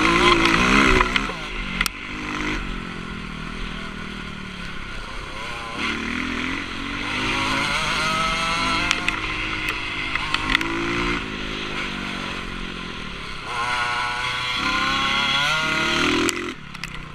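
Motocross bike engine heard on board, revving up and down as the rider accelerates, shifts and backs off, with long climbs in pitch; the engine note falls away near the end.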